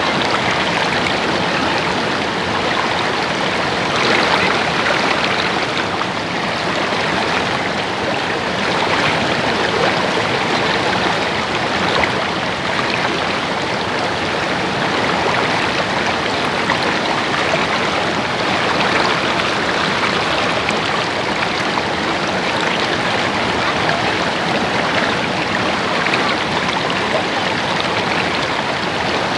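Stream water babbling and trickling over stones, a steady, even rush of flowing water.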